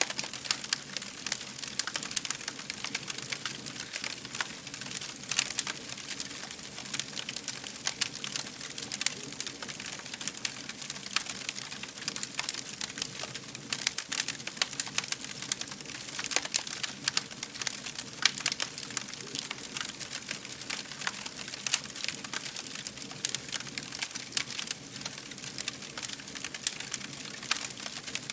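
Fire crackling: a dense, irregular run of sharp pops and snaps over a soft steady hiss.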